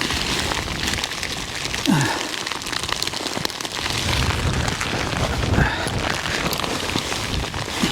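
Heavy rain pouring down steadily, with gusts of wind buffeting the microphone in low rumbles from about four seconds in.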